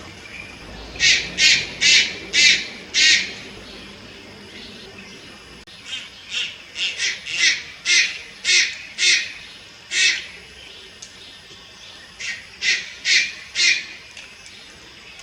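Juvenile Malayan night heron giving harsh, short squawking calls in runs at about two a second: five, then a pause, then about nine, and four more near the end.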